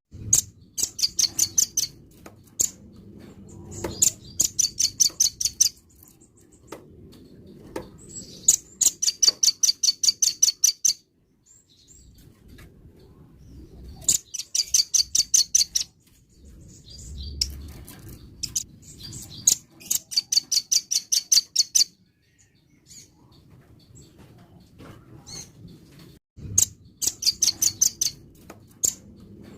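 Velvet-fronted nuthatch (rambatan) singing: six bursts of rapid, high, evenly repeated notes, each about two seconds long, with pauses of a few seconds between them.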